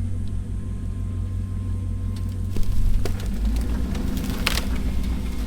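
Off-road recovery rig's engine running at low speed as the convoy moves off, a steady low hum that drops to a deeper note about three seconds in. A few short knocks, the sharpest near the end.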